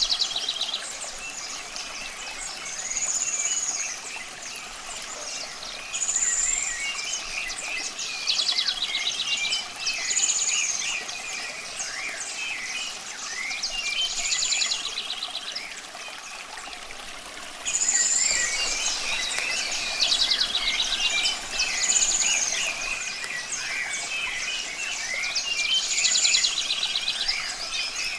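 Several birds singing and calling, with a short arched high call repeating every few seconds among quicker chirps and trills, over a soft steady rush of running water.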